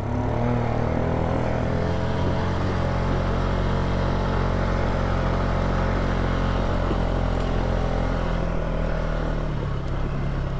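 Polaris ATV engine running steadily at low speed as the quad moves up a dirt trail, its pitch rising slightly at the start.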